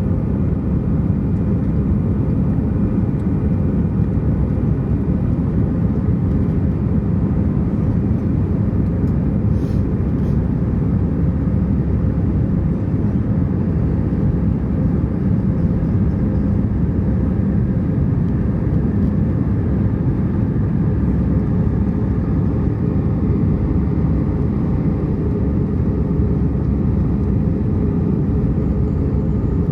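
Steady low rumble of an Airbus A320's engines and airflow, heard from inside the passenger cabin.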